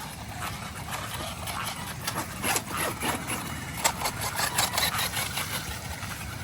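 A 1:8 electric RC buggy running, with a steady mechanical hum. Between about two and five and a half seconds in there is a dense run of clicks and rattles.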